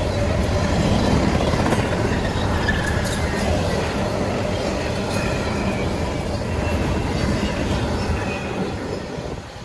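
Freight train rolling past close by, its steel wheels running on the rails in a steady rumble; the noise drops off sharply just before the end.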